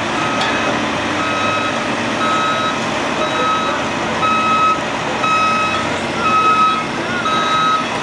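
A heavy truck's reverse alarm beeping about once a second, each beep about half a second long, over the steady running of the truck's engine.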